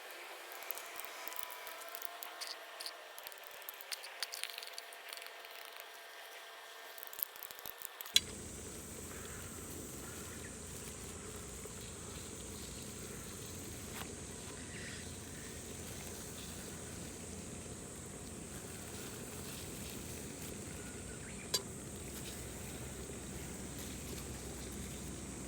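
Wood fire crackling and food sizzling, with many small irregular pops for about eight seconds. Then a sharp click, and the sound changes abruptly to a steady even hiss with a faint high whine.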